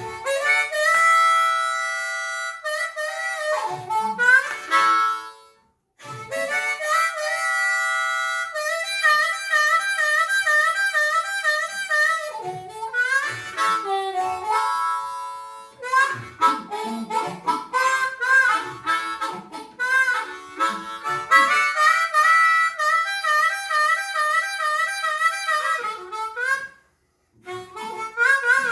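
Hohner harmonica in C played loosely, not a set tune. It holds chords with a wavering warble and bends notes sliding down in pitch. It breaks off briefly about five seconds in and again near the end.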